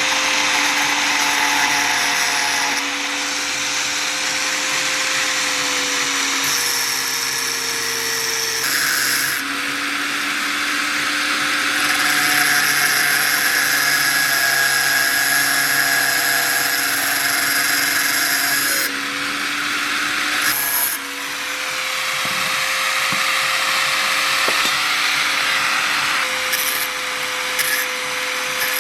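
Power tool's electric motor running for a long stretch while it works material, its hum sagging slightly and its hiss changing several times as the load comes and goes.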